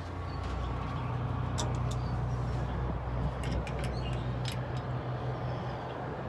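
Steady low engine hum, swelling slightly midway, with scattered light clicks and knocks over it.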